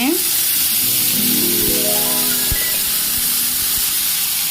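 Steady hiss of water poured into a hot pan of sautéed chicken and spices, steaming as it hits the pan, starting abruptly, with light background music under it.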